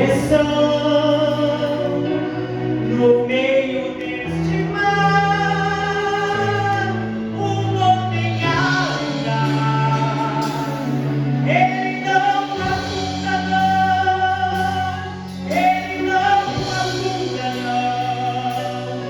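Women singing a Christian gospel song over instrumental backing, with long held bass notes that change every few seconds.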